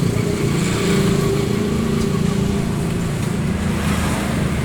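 A car engine running steadily with a continuous low hum.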